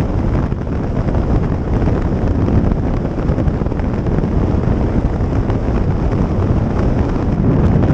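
Steady wind rush buffeting the microphone on a moving motorcycle, with the bike's running noise underneath.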